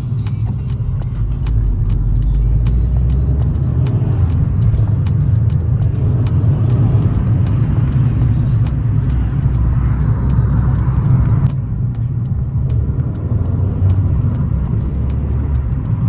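Car on the move: a steady low engine and road rumble. About two-thirds of the way through, the higher hiss above it drops away suddenly.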